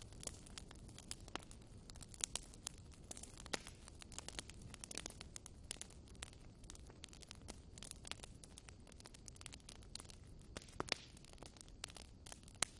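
Wood fire in a fireplace crackling, with irregular sharp pops and snaps over a low steady rumble of burning.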